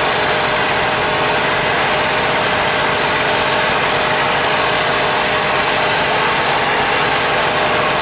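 Steady machine noise: an even hiss with a faint constant hum.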